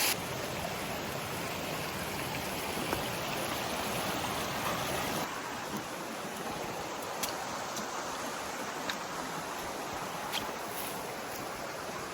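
Creek water running steadily over rocks, a continuous rushing wash whose tone shifts about five seconds in. A few faint clicks sound over it in the second half.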